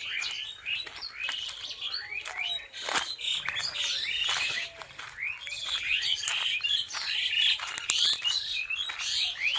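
Several birds chirping and calling at once in a busy chorus of short, quick rising and falling notes, with scattered sharp clicks among them and one louder snap about three seconds in.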